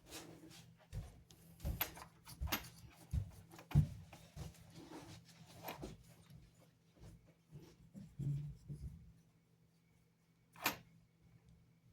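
Irregular small clicks and knocks of a model steam locomotive being handled and dusted with a makeup brush, with one sharper click near the end. A faint steady low hum runs underneath.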